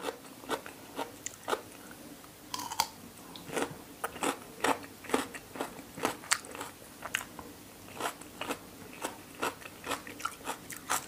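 Close-miked chewing and crunching of food in the mouth: raw pork-liver koi salad eaten with raw bitter melon, with short sharp crunches and mouth clicks a few times a second at an uneven pace.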